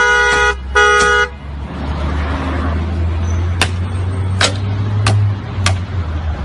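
Car horn honking twice, the second blast ending a little over a second in. Then, over a low steady rumble, four sharp ringing strikes come about two-thirds of a second apart: golf club blows on a car's body.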